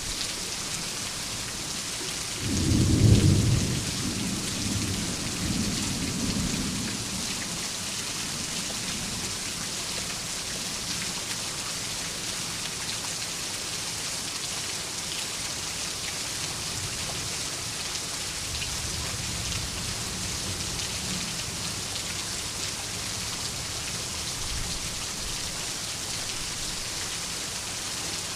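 Steady heavy rain, with a loud clap of thunder about three seconds in that rumbles away over several seconds, and a fainter distant rumble of thunder past the middle.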